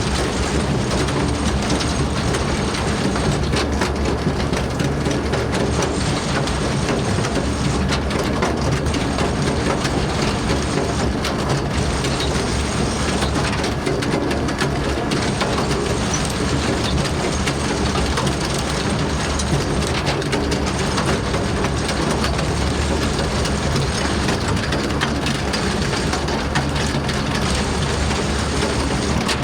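A farm vehicle's engine running steadily under a continuous clatter of working machinery, as used when feeding out.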